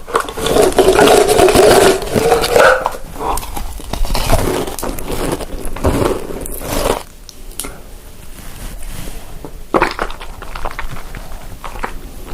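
Eating sounds close to the microphone: chewing and crunching food, loud for the first three seconds or so, then quieter with scattered short clicks.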